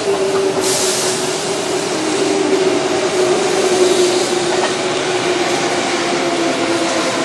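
Electric commuter trains running through a station: a steady traction-motor whine in a few pitched tones that slowly drop, over the rumble of wheels on rails, with a short burst of hiss under a second in.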